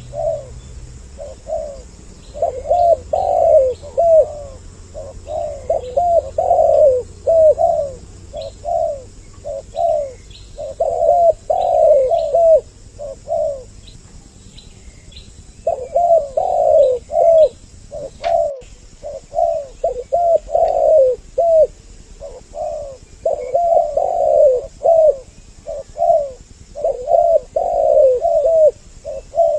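Spotted doves (tekukur) cooing over and over in quick repeated phrases, the calls overlapping as if from more than one bird. The calls break off briefly about halfway through, and a single sharp click sounds just after they resume.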